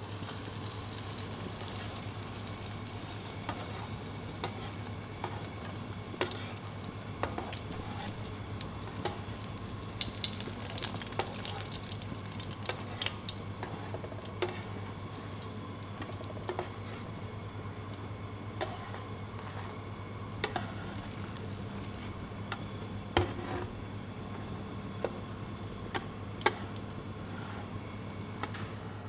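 Food frying with a steady sizzle, broken by many short clicks and knocks of utensils, over a steady low hum.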